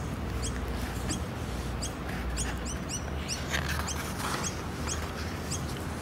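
Small birds chirping: short, high, falling chirps about two a second, over a low outdoor rumble. Paper book pages rustle briefly past the middle.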